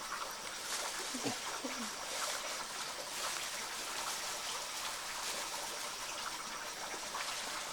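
Steady trickle of running water, an even hiss with no breaks.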